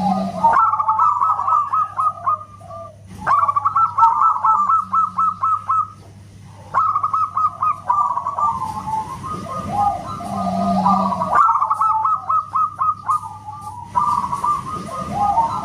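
Zebra dove (perkutut) singing loudly: repeated phrases of rapid staccato coos, each a few seconds long, with abrupt breaks between phrases. A faint steady low hum runs underneath.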